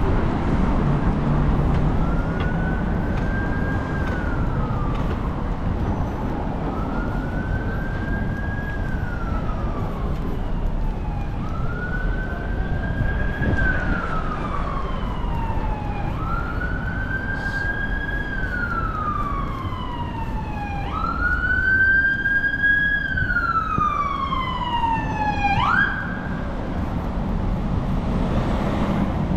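Emergency vehicle siren wailing in slow rising-and-falling sweeps about five seconds apart, getting louder as it comes closer, then breaking off suddenly near the end. Steady road traffic noise runs underneath.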